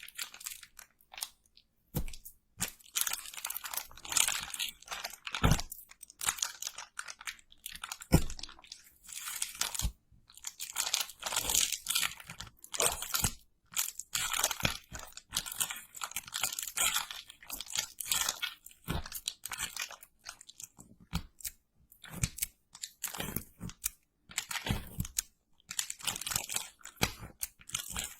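Close-miked crunching and crackling, in irregular short bursts with sharp clicks and brief pauses between them.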